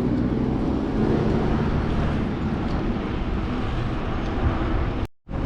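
Steady rushing noise of riding a bicycle on a city road: wind on the microphone mixed with passing traffic. The sound cuts out completely for a split second near the end.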